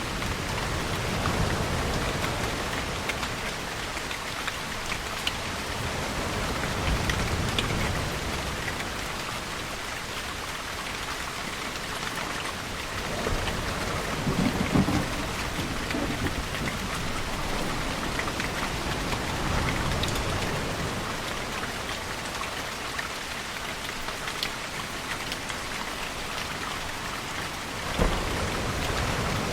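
Steady rain with low rolling rumbles of distant thunder, which swell most strongly about halfway through. A sudden short crack comes near the end.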